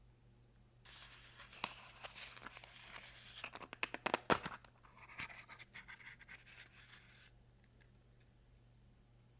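Plastic packaging being crinkled and torn open by hand during a toy unboxing: a crackling rustle full of sharp clicks, loudest about four seconds in, which starts about a second in and stops suddenly near the end.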